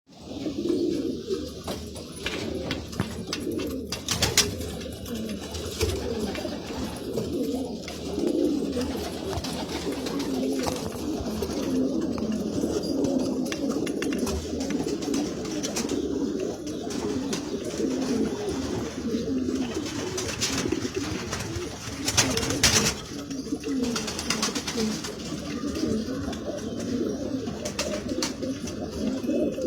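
Domestic pigeons cooing continuously, many low overlapping coos from several birds at once, with a couple of sharp knocks about four seconds in and again near twenty-two seconds.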